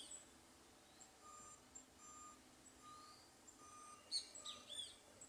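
A faint reversing alarm beeping, about five short even beeps a little under a second apart. Birds chirp over it, loudest about four seconds in.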